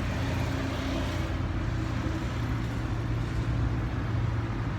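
Steady low rumble of road traffic or a running vehicle, even in level throughout.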